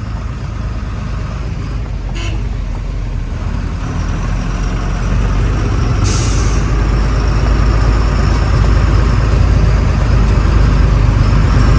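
Truck diesel engine running under load, growing steadily louder as it pulls. There is a brief click about two seconds in and a short hiss about six seconds in.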